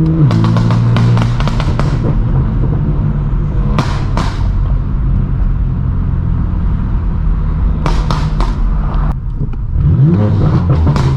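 Straight-piped BMW M4 F82's twin-turbo inline-six exhaust on the move, with several clusters of sharp crackles and pops off throttle. The revs drop just after the start and climb again about ten seconds in.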